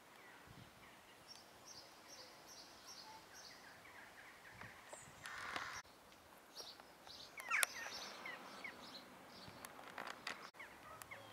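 Small birds chirping and singing faintly, in short scattered calls with quick rising and falling notes, over a low background hiss. A brief burst of noise comes just after the middle.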